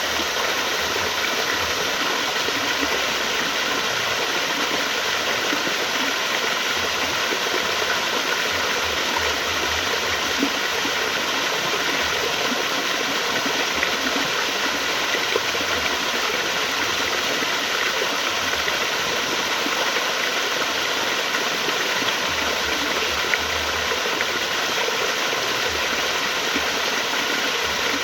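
Flowing water, a steady rushing stream.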